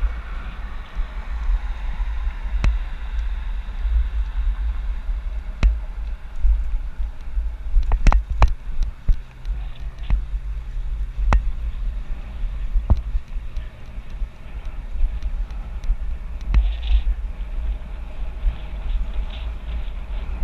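Wind buffeting a bike-mounted GoPro microphone during a ride, a heavy uneven rumble, with scattered sharp clicks and rattles, several in quick succession about eight seconds in.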